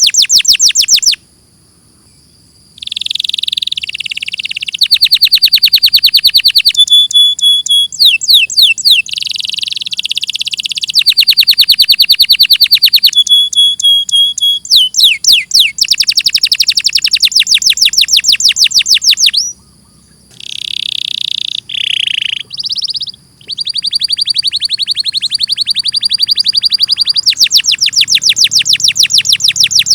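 Domestic canary singing a long song of rolling trills: fast runs of repeated notes, switching from one trill type to the next every second or two, with short pauses about a second in and about two-thirds of the way through.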